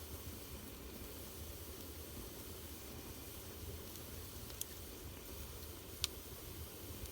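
Fire burning in a fireplace: a soft steady hiss with two sharp crackling pops, about four and a half and six seconds in, the second louder.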